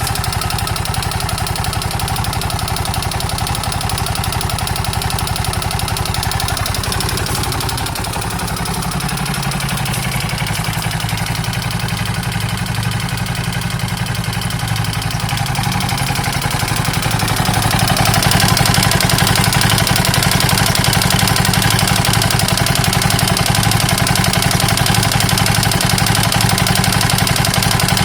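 KTM 640 LC4 single-cylinder four-stroke engine running with the bad noise that the owner cannot yet place as a top-end or a bottom-end problem. Its note shifts about eight seconds in, and it runs louder and brighter from about eighteen seconds in.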